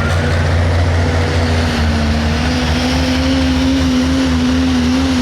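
Pro stock pulling tractor's turbocharged diesel engine running loud, a steady low drone with a tone above it that climbs slowly in pitch.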